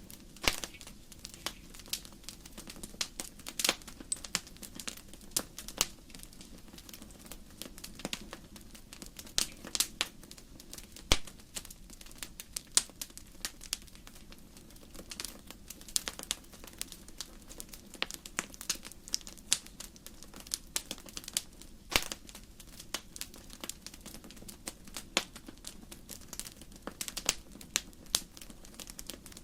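Wood fire crackling: burning logs popping and snapping in irregular sharp clicks over a faint steady hiss.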